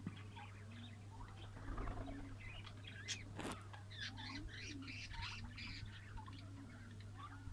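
Lovebirds chirping and chattering in many quick, high calls, busiest in the middle, over a steady low hum.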